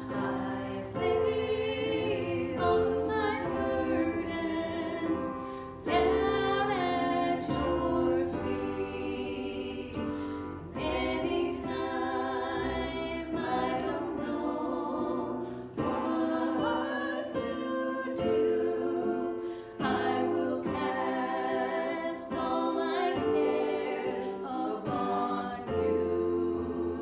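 Worship music: several voices singing a hymn-like song together over sustained instrumental accompaniment.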